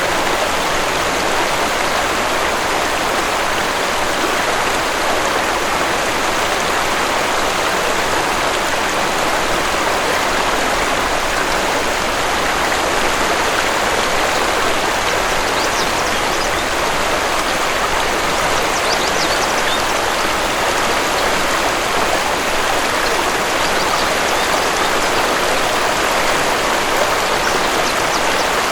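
Waterfall: a steady, even rush of falling water, with a few faint high bird chirps about halfway through.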